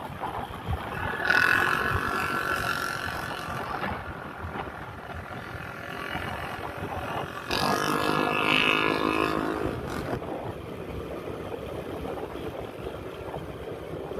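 Traffic noise heard from a moving motorbike, with wind on the microphone. Two louder stretches carry a steady pitched droning tone, one starting about a second in and the other around the middle.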